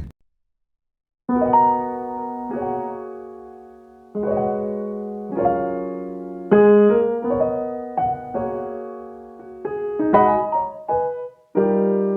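Piano music: slow chords, each struck and left to die away, starting about a second in after a moment of dead silence.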